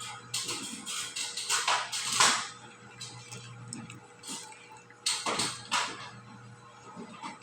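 Irregular knocks and scrapes, loudest about two seconds in and again about five seconds in, over a steady low hum.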